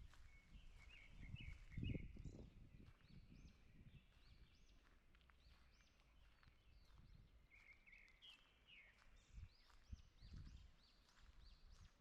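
Faint birdsong from several small birds: repeated high, arched chirps, with a short rattling trill about a second in and again around eight seconds in. Low footsteps on a forest path thud near the start and around ten seconds in.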